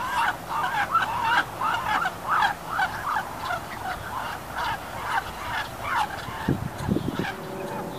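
A bird calling in a steady series of harsh, honking notes, about two a second, growing fainter toward the end; a few brief low sounds come in about three-quarters of the way through.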